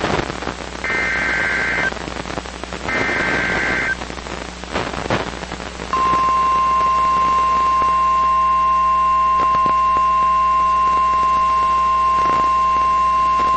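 Weather radio emergency alert through a receiver with poor reception: two short buzzy bursts of digital alert header data, a couple of seconds of static, then the steady single-pitch warning alarm tone starting about six seconds in.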